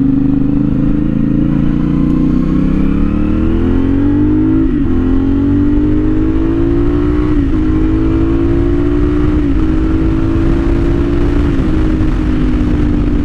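CFMOTO 450SS parallel-twin engine running through a new aftermarket slip-on exhaust, pulling under throttle. Its pitch climbs steadily from about two to five seconds in, then holds fairly even with a few brief small dips.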